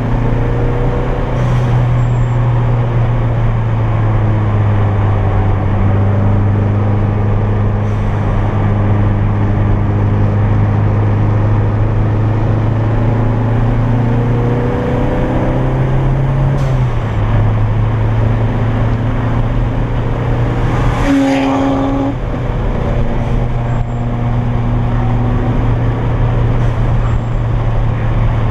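Toyota MR2's turbocharged engine running hard at fairly steady revs, heard from inside the cabin, over a steady hiss of road noise. The pitch steps up about a second and a half in and drops about 17 s in. About 21 s in the note breaks off briefly with a short burst of noise, as at a gear change.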